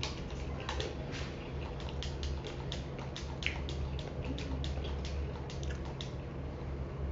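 Chewing of Korean chicken and vegetable dumplings close to the microphone: many quick wet mouth clicks and smacks, over a steady low hum.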